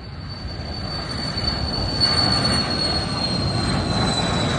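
Embraer Phenom business jet rolling down the runway, its turbofan engines giving a high whine that slowly falls in pitch over a rush of engine noise that grows louder.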